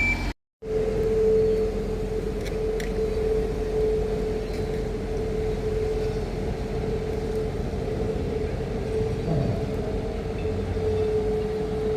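A tram's steady electrical hum, a constant mid-pitched tone over a low rumble, with a few faint clicks about two and a half seconds in.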